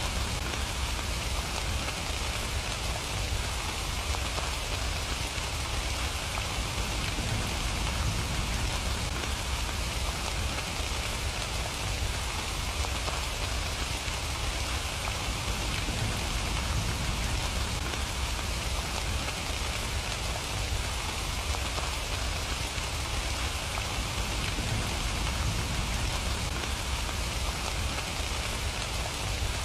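Steady rain falling: an even, unbroken hiss of many drops, with a low rumble underneath.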